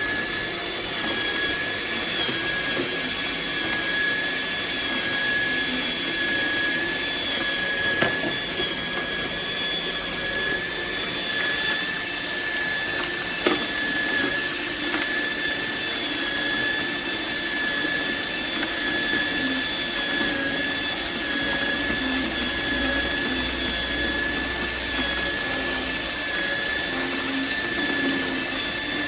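An electric cold-press juicer's motor and gearing running with a steady high whine. Two sharp clicks come through, about 8 and 13 seconds in.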